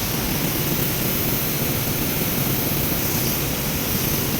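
Steady, unchanging mechanical noise, a low rumble with a rushing hiss over it.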